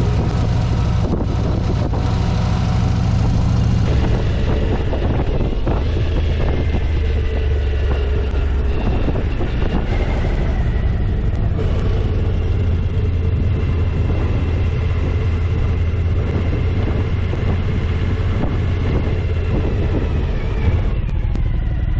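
Motorcycle engine running steadily while riding, with wind and road noise on the camera's microphone.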